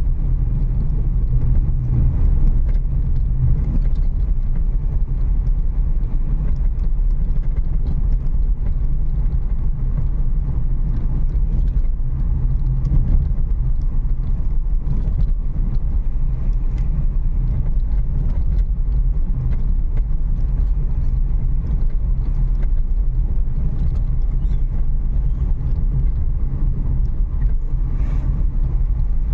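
Renault Kiger driving slowly over a rough, broken road: a steady low rumble of engine and tyres, with faint scattered ticks and rattles.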